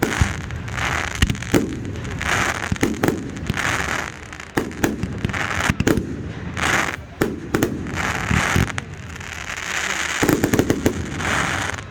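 Fireworks display: a rapid run of sharp bangs, with crackling bursts about once a second.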